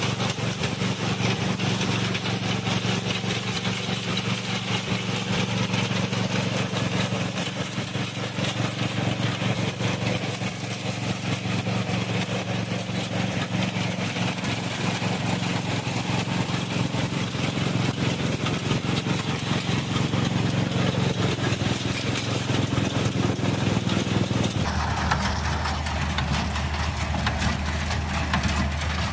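Tractor engine running steadily while working a hay baler. About 25 seconds in, the sound changes abruptly to a different, lower steady hum.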